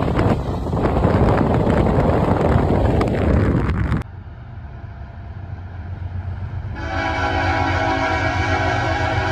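CSX freight train's hopper cars rolling past close by, a loud steady rumble of wheels on rail. After a cut there is a quieter low rumble of an approaching train, then a diesel locomotive's air horn sounds a held chord from about seven seconds in.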